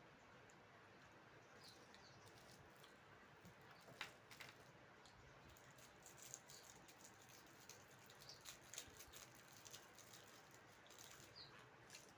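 Near silence: faint room tone with scattered faint clicks and ticks, a little busier in the second half.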